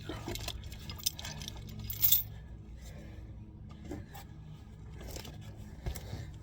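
Scattered light clicks and one sharp metallic clink about two seconds in, over a low steady hum.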